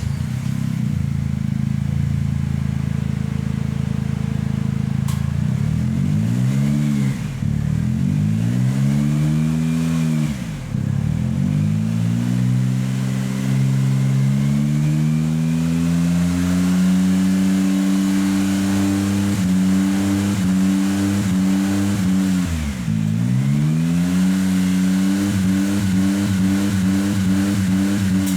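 Honda N-BOX Custom JF3 turbo's 660 cc three-cylinder engine heard through an aftermarket full-back exhaust with a 100 mm tail. It idles steadily, is blipped several times, is then held at raised revs for about ten seconds, drops back and is revved again near the end.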